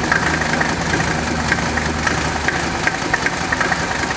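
Mercedes-Benz OM617 five-cylinder turbo diesel idling steadily on its first run after being swapped into a Toyota 4Runner. Sharp irregular ticks sound about twice a second over the idle.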